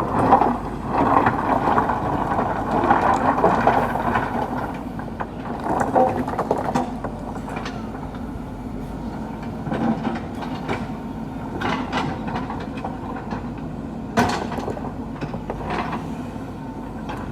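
JCB 3DX backhoe loader's diesel engine running steadily, with scattered knocks and clanks as it works the stones, the loudest about fourteen seconds in.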